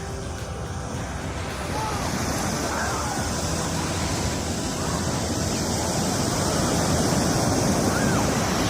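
Ocean surf: waves washing in at the water's edge, a steady rushing that builds a little louder over the second half.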